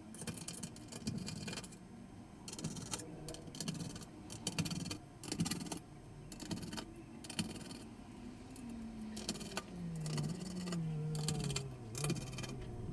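Parts of a Dell Optiplex 7440 all-in-one computer being handled during disassembly: a run of clicks, scrapes and rattles of plastic and metal, with a low wavering squeak in the last few seconds.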